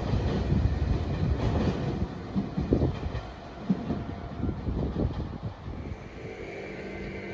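Electric train passing, its wheels clacking over the rail joints, the noise fading away over the last couple of seconds into a quieter steady hum.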